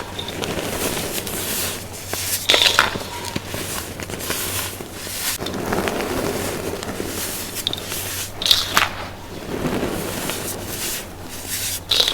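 Blocks of baking soda being crushed, crunching and crackling, with a soft, powdery rustle in between. Sharper crunches come about two and a half seconds in, around eight and a half seconds, and again at the very end.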